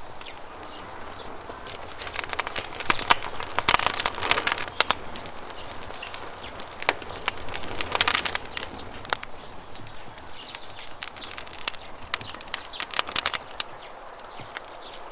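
Campfire crackling, with bursts of sharp pops and snaps coming in clusters, over a steady background rush of flowing river water.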